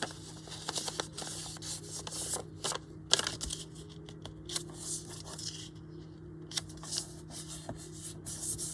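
Paper being handled, folded and rubbed on the work surface: irregular short rustles and clicks.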